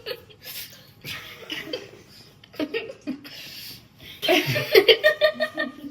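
People chuckling and laughing softly, with voices growing louder in the last second and a half.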